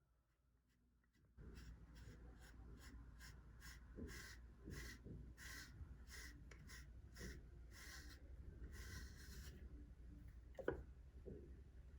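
A brush drawn through a cat's fur in quick, repeated strokes, about two or three a second, starting a second or so in. A sharp click comes near the end.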